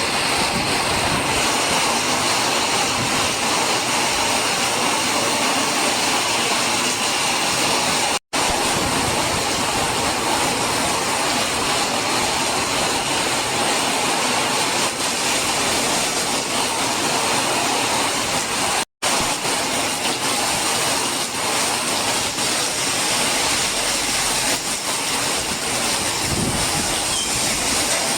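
Heavy rain pouring steadily in a storm, a dense even hiss. It cuts out for an instant twice.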